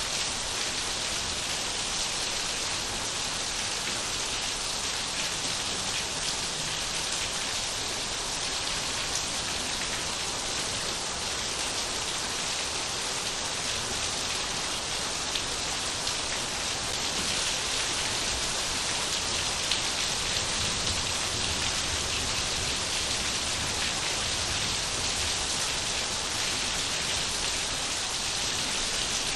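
Steady rain falling and pattering on surfaces, a dense even hiss with fine drop ticks throughout, swelling slightly in the low end in the middle.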